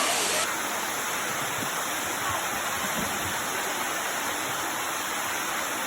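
Steady rushing of a waterfall, water pouring and splashing over rocks in an even noise.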